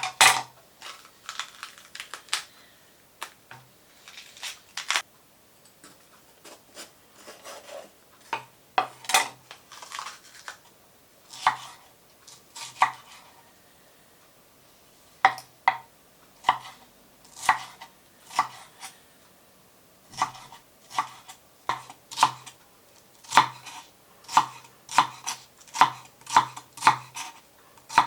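Knife chopping on a cutting board: scattered, irregular cuts at first, then after a short pause a steady run of about two strokes a second.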